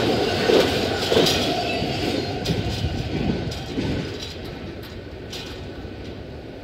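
The last intermodal freight cars of a CSX train roll past over the crossing, their wheels clattering on the rails. The sound fades away about four seconds in as the train clears.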